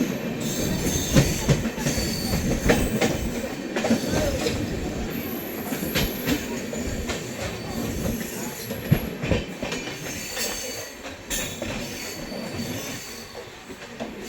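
Passenger train running on the track, its carriage rattling and knocking over the rails with thin high wheel squeals. It grows gradually quieter toward the end.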